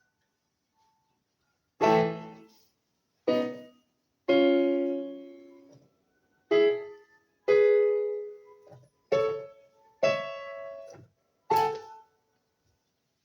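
Piano playing a slow series of separate loud chords, about eight in all, each struck and left to ring and fade before the next.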